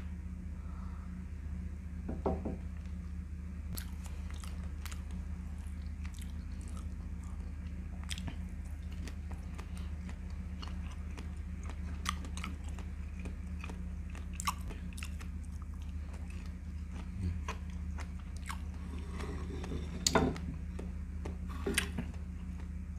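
Close-up chewing and mouth sounds of a person eating, scattered wet clicks and smacks over a steady low electrical hum. A few louder bumps stand out, the loudest about twenty seconds in.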